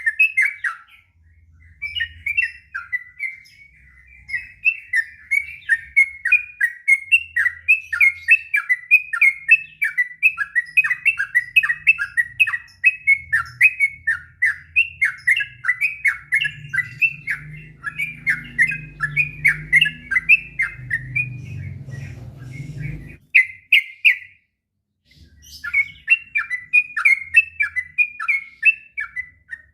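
Sooty-headed bulbul singing a long, unbroken run of quick warbled notes, several a second. It pauses for about a second near the end, then goes on. A faint low rumble sits underneath for a few seconds midway.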